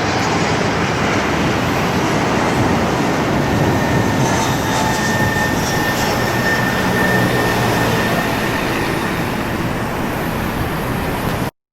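Jet airliner engines running with a loud, steady roar and a faint high whine, cutting off suddenly near the end.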